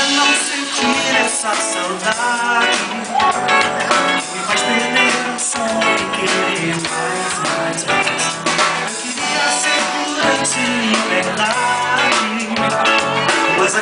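A band playing a song, with guitar and a singing voice.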